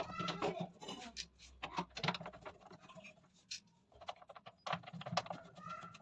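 Irregular clicks, taps and scrapes of parts and tools being handled while the washing machine is reassembled.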